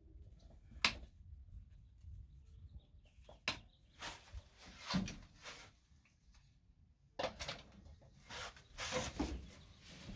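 Scattered sharp knocks and clunks with bursts of scraping and rustling, from parts of a van's interior being handled and pulled apart.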